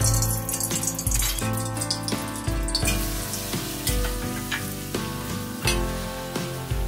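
Cut tempeh strips sizzling as they fry in hot oil in a wok, with a metal spatula clicking and scraping against the pan as they are stirred. Background music with a steady bass beat plays throughout.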